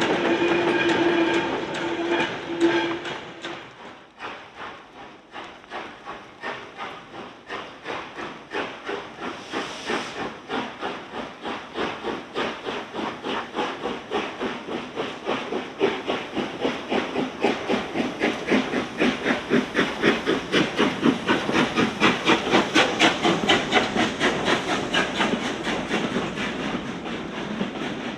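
A steam locomotive whistle sounds for about three seconds. Then the engine's exhaust beats start, quickening and growing louder until they ease off a little near the end, with a brief hiss of steam about ten seconds in.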